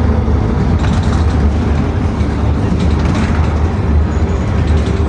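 PAZ-422320-04 Citymax 9 city bus under way, heard from inside the passenger cabin: a steady low engine and road rumble with a few faint rattles and clicks.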